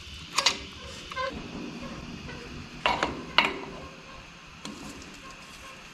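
Hand tools working the main cap bolts on a 6.0L LS engine block: a few sharp metallic clicks and clunks, the two loudest close together about three seconds in.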